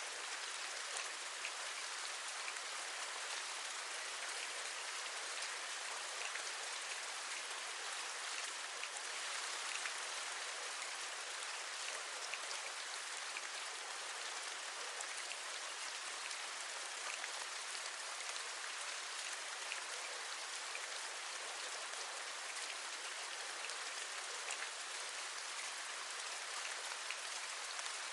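Steady rain, with many individual raindrops tapping close by.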